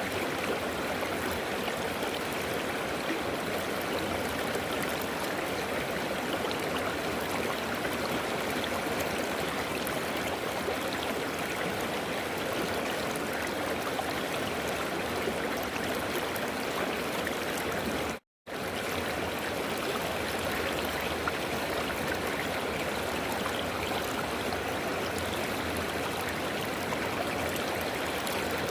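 River water flowing, a steady continuous rush. It cuts out to silence for a split second about two-thirds of the way through, then resumes unchanged.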